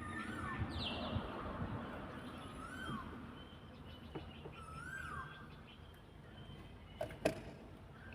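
A bird calling: a rising-then-falling note repeated three times about two and a half seconds apart, with fainter high twittering calls. Two sharp knocks near the end.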